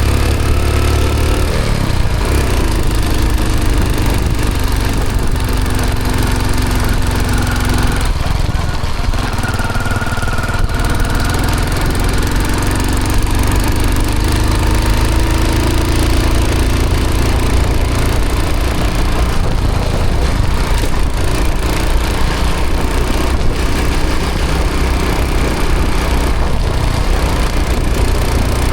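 1995 Hero Honda CD100 DLX's small single-cylinder four-stroke engine running as the bike is ridden, its note rising and falling several times with throttle and gear changes over a steady low rumble.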